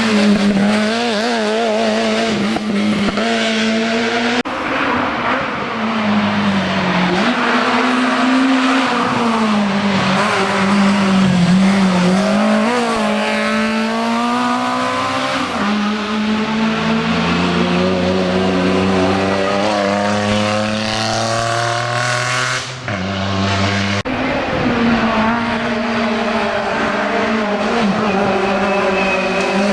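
Rally cars at full stage pace, one after another, engines revving up and down through gear changes as they brake and accelerate, with some tyre squeal. The sound changes abruptly a few times as one car gives way to the next.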